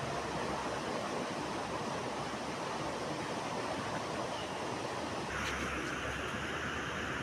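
Steady road and wind noise of a car on the move, heard from inside. About five seconds in, the low rumble and hiss step up a little.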